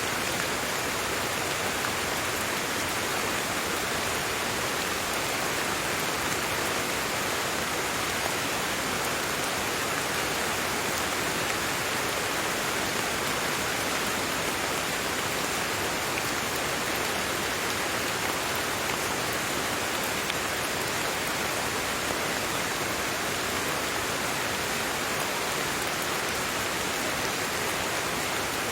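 Steady rain falling, an even hiss of many drops with no changes or breaks.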